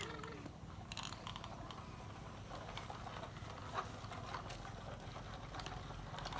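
Faint, scattered clicks and taps over a low, steady hum.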